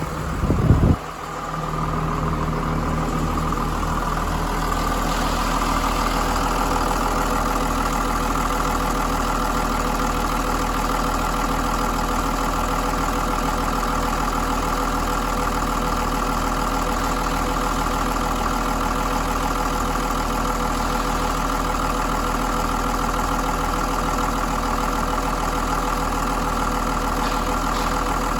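John Deere 6068 6.8-litre inline-six diesel engine running at a steady idle, with a brief loud low burst about a second in before it settles back into even running.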